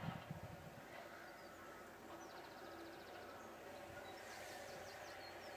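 Faint high-pitched animal chirps over a quiet outdoor background: a short rapid trill about two seconds in, then a few quick chirps near the end.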